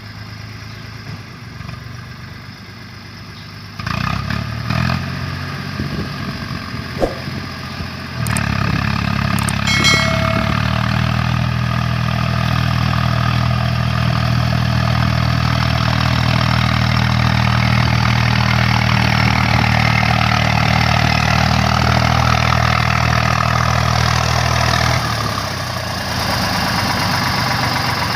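Powertrac Euro tractor's diesel engine running steadily. It gets louder in two steps, about 4 and 8 seconds in, with a few short clatters, holds a strong even hum, and eases back a little near the end.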